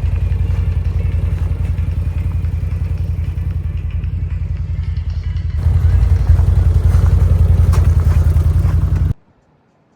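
CFMOTO ATV engine running while riding, a steady low pulsing that grows louder a little over halfway through and then cuts off abruptly about a second before the end.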